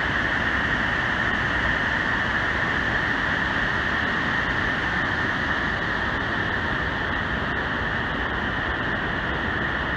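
Steady rush of falling water from the Great Falls of the Passaic River, an even, unbroken noise with no changes.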